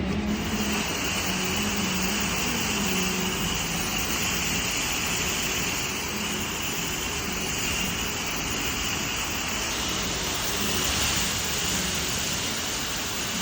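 Automatic car wash equipment running: a steady, loud rushing noise that starts just after the beginning.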